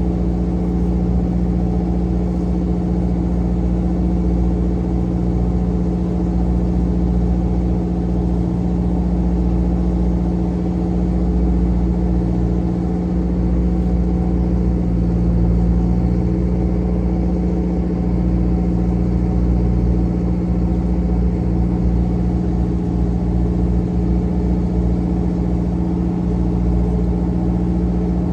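Fishing trawler's inboard engine running steadily at a constant speed, a continuous hum that holds one pitch throughout.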